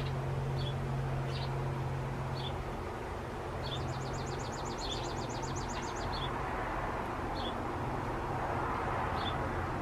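Small birds chirping outdoors: a short high chirp about once a second, with a rapid trill of quick repeated notes lasting about two seconds near the middle. A steady low hum underneath eases about three seconds in.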